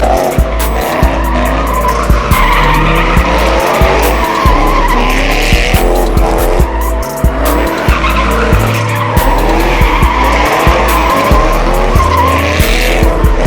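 A car sliding with its tyres squealing and its engine revving up and down, over loud music with a heavy bass beat.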